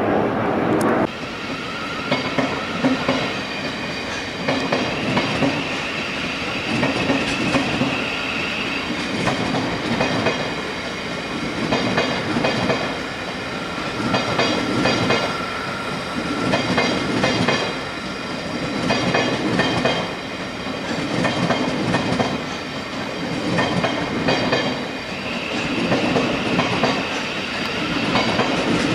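Electric multiple-unit train moving along the platform, its wheels clacking over rail joints in a regular rhythm that swells about every two seconds, with a steady high whine at times.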